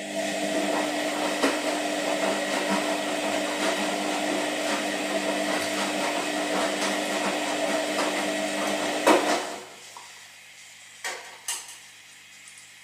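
Washing machine running: a steady hum with dense rattling and clatter, stopping with a sharp clunk about nine seconds in. Two short clicks follow.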